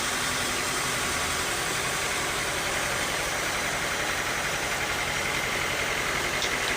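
Bandsaw sawmill machinery running, a steady mechanical drone with an even hum that does not change.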